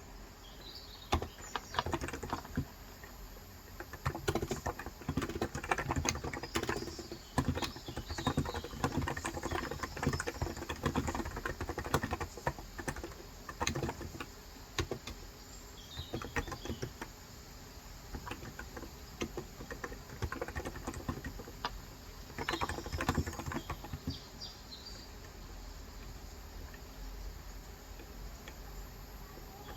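Typing on a COX Endeavor electrocapacitive (Topre-style) keyboard with light 35 g switches, in quick runs of keystrokes with short pauses. The typing thins out in the second half and stops for the last few seconds. Birds chirp faintly in the background.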